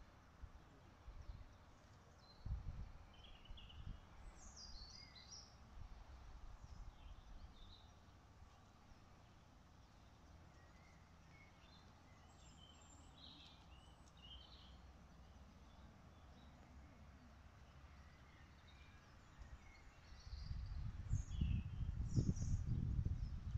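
Birds chirping now and then over faint outdoor background noise. About twenty seconds in, a louder low rumble starts and carries on.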